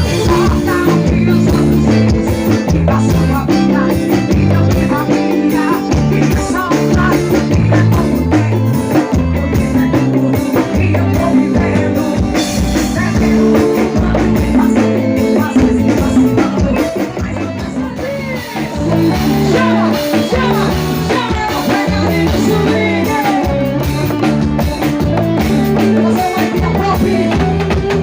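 Live forró band music with drum kit, bass and melody lines, loud and steady, dipping briefly about two-thirds of the way through.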